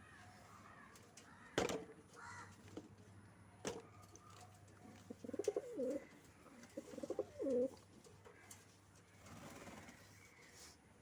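Domestic pigeons cooing: two warbling coos in the middle, with a couple of sharp clicks or knocks before them.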